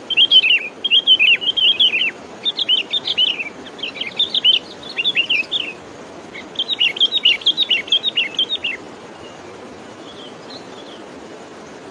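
A bird calling in loud, rapid bouts of short downward-sweeping chirps, several phrases with brief gaps, stopping about nine seconds in over a steady low background noise.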